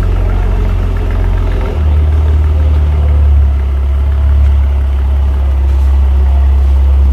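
Dodge Challenger V6 idling with a loud, deep exhaust note through a Borla ATAK cat-back with the mufflers deleted, close to straight pipe. Its low note shifts about two seconds in, then holds steady.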